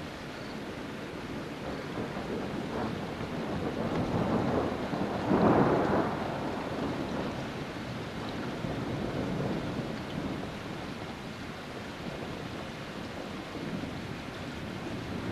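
Steady rain hiss with a roll of thunder that swells to its loudest about five seconds in and then dies away.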